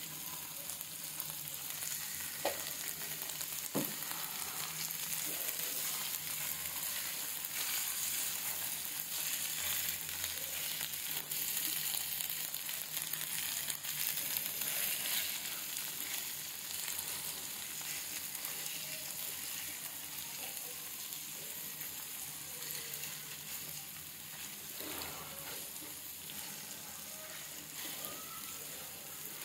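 Chilli sambal paste sizzling in a frying pan with a splash of water just added, stirred and scraped with a silicone spatula; two sharp knocks come about two and four seconds in.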